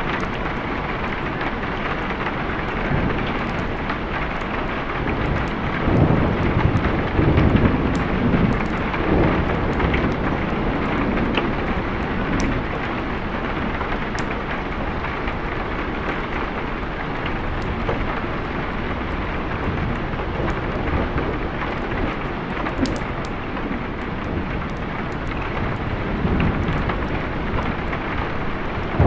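Steady rain falling, with thunder rumbling low and loudest about six to ten seconds in.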